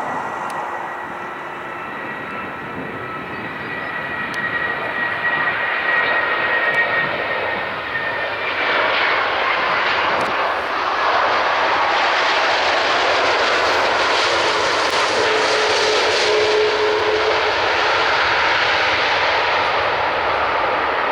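Airliner engines passing: a high whine at first, then a rushing noise that grows louder over the first ten seconds or so and holds loud to the end.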